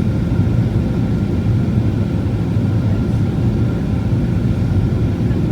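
Steady low rumble of a Boeing 737 in flight on approach: engine and airflow noise as heard inside the cabin, with a faint steady whine above it.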